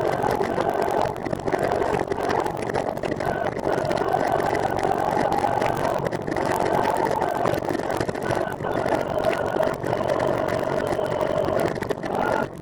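Steady running noise from a moving recumbent trike: a continuous hum with tyre and wind noise, dipping briefly a few times.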